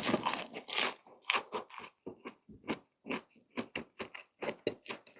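A loud crunchy bite into a breaded, fried cheese stick, followed by close-up chewing: short crackly crunches about two to three a second.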